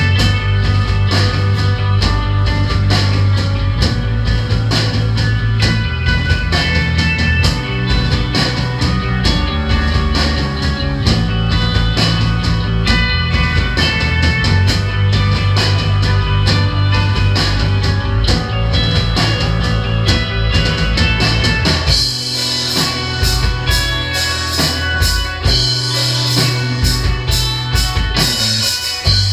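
Live rock band playing, with a drum kit, guitars and a heavy bass line. A little over two-thirds of the way through, the bass drops away and the cymbals wash louder.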